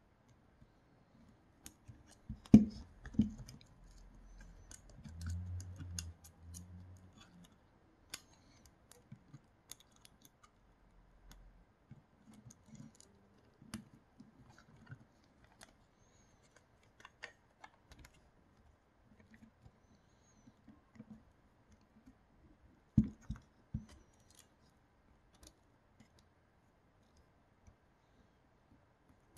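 Small parts and tools of a Creality Sprite extruder being handled during disassembly or reassembly: scattered light clicks and ticks, a short stretch of low rubbing, and two clusters of louder knocks as parts are set down, a few seconds in and again about three quarters of the way through.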